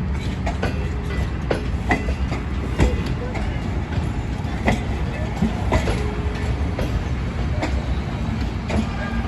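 Train running, with a heavy low rumble and irregular sharp clicks of wheels over the rails.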